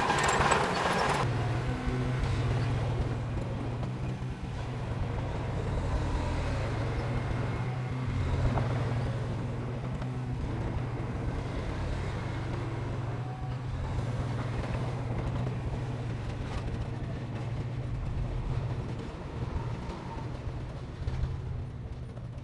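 Heavy diesel earthmoving machinery running steadily with a low, rough engine hum, after a brief louder rush of noise in the first second.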